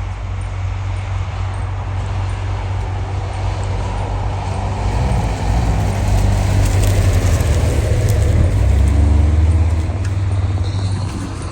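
Heavy vehicle engine running with a steady low drone. It grows louder about halfway through and eases off near the end.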